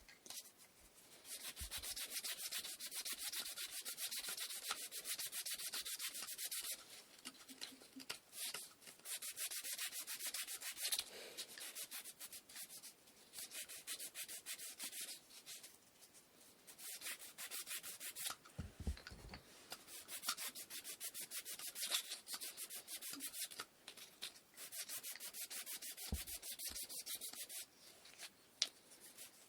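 Hand-sanding of wooden inkle loom parts: quick back-and-forth scratching strokes on the wood, in runs of several seconds broken by short pauses.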